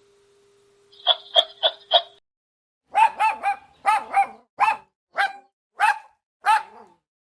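A dog barking: four quick yaps about a second in, then a run of about ten short barks, roughly two a second.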